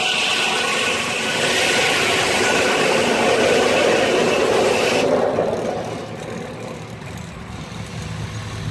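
Steam-powered sawmill saw cutting through a log, a loud rasping noise that stops suddenly about five seconds in as the cut ends. The saw and drive then run on more quietly.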